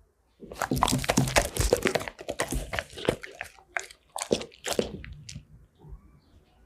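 Golden retriever chewing and crunching food: a quick run of crunches for about three seconds, then a few slower bites that trail off.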